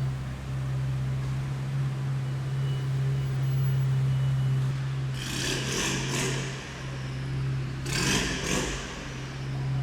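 Supercar engine idling with a steady low drone. About five seconds in, and again about eight seconds in, short rushing bursts of noise lasting about a second rise over it.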